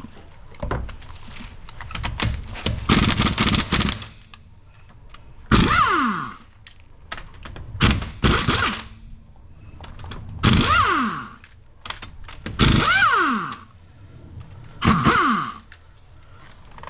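Pneumatic impact wrench hammering on the wheel bolts in about seven short bursts, the longest about two seconds. Each burst ends in a falling whine as the air motor spins down after the trigger is released.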